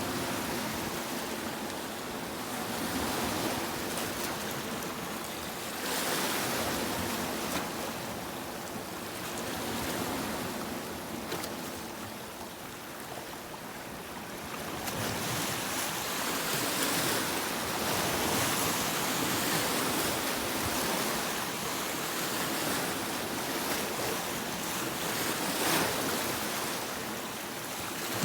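Sea waves breaking on a beach, the surf swelling and ebbing every few seconds, fuller and louder from about halfway through.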